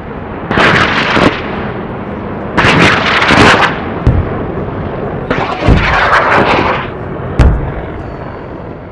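Booming sound effects: three swells of rushing noise and several heavy low thumps, the loudest thump near the end.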